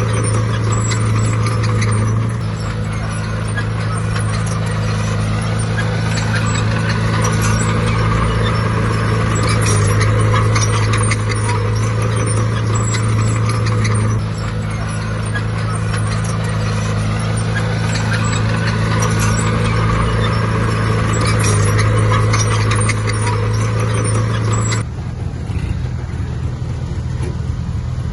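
Heavy diesel earthmoving machinery running steadily under load, its engine note shifting up and down every few seconds, with a constant light clatter of metal. The whole sound changes suddenly near the end.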